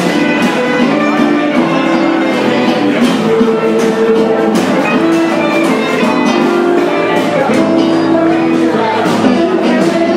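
Gypsy-jazz swing music with guitars, playing at a steady beat.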